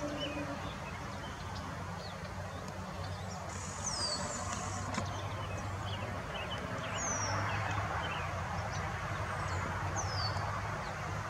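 Wild birds calling outdoors: scattered short high chirps, with three or four sharp whistled notes that drop quickly in pitch. Under them runs a steady background noise with a low hum.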